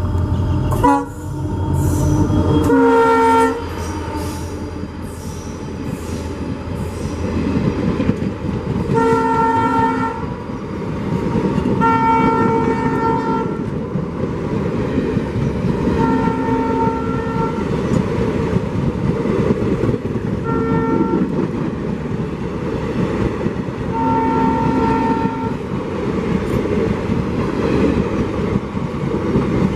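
A diesel locomotive horn sounds about six blasts, each a second or so long and sounding as a chord of several notes, over the steady rumble and clickety-clack of a passing train.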